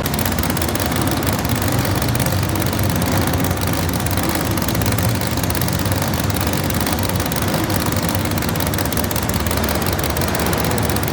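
Modified pulling garden tractor's engine running hard and steady at high revs, with a dense rapid exhaust pulse.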